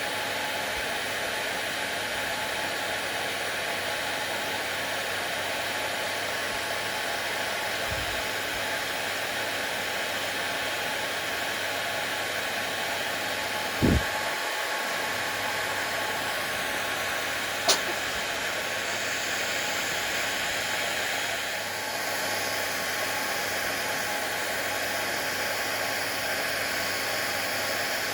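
Hair dryer running steadily, a constant airy whoosh with a faint steady whine. A brief low thump about 14 seconds in and a sharp click a few seconds later stand out over it.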